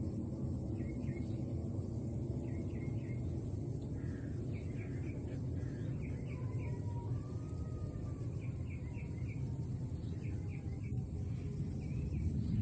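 A small bird chirping in quick runs of three or four notes, repeated about once a second, over a steady low rumble.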